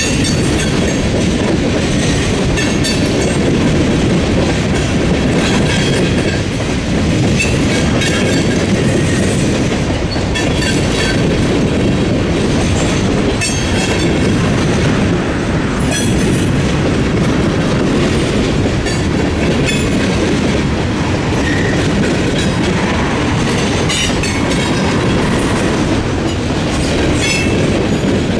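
Freight train cars rolling past at speed, a steady loud rumble with irregular clickety-clack as the wheels strike the rail joints and the frogs of a railroad crossing diamond.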